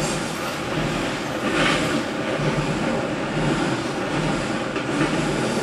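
Double-stack intermodal container train rolling across a steel girder bridge overhead, a steady rumble of the container cars passing.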